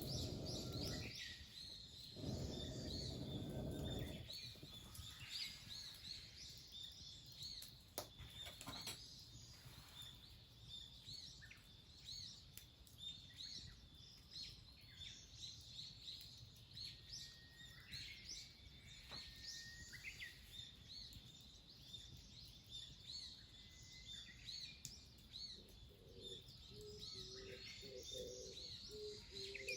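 Small birds chirping repeatedly in high, short calls, with a dove's low repeated cooing near the end. Two brief low rushes of noise come in the first few seconds.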